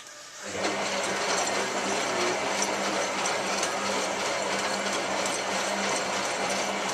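Hotpoint 9534A washing machine running its Cotton 85 wash: the drum motor starts about half a second in and runs with a steady low hum over a dense mechanical noise.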